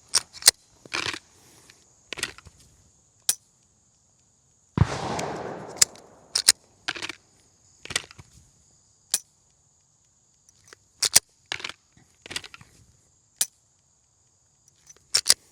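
Handgun dry fire: a string of sharp, scattered clicks of the trigger breaking on an empty chamber and the slide being racked to reset it. A single gunshot about five seconds in is the loudest sound, with a short echoing tail.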